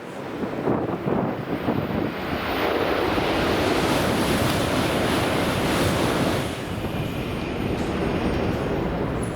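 Shinkansen train moving along the platform: a loud rushing roar that builds over the first few seconds and eases back somewhat after about six and a half seconds.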